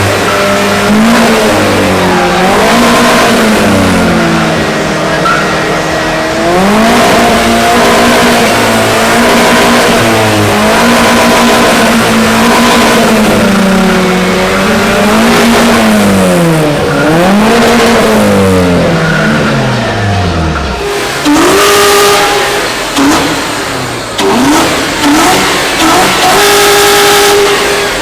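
Car engines being revved over and over, the pitch climbing and dropping every couple of seconds. Near the end come several short blips, each held briefly at a steady pitch.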